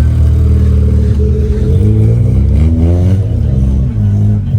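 Opel Corsa B's engine idling, revved once: the pitch climbs from about two seconds in, peaks around three seconds, then drops back to idle.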